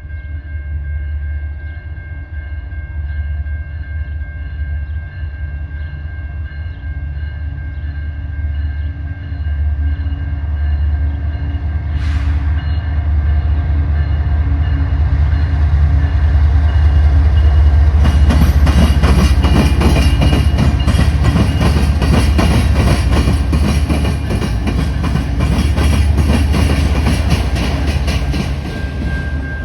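A train passing close by. A low steady rumble with a steady whine grows louder, with one sharp sound about twelve seconds in. From about two-thirds of the way through, a loud dense rattle and clatter of wheels on rail takes over as the cars go by.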